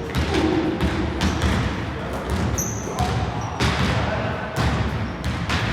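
A basketball bouncing repeatedly on a gym floor during a game, with short high squeaks now and then.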